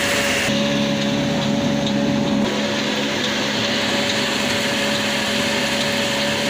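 Old 22-horsepower black diesel engine running at a steady speed, driving a flour mill as it grinds wheat: a continuous mechanical drone with a constant pitch.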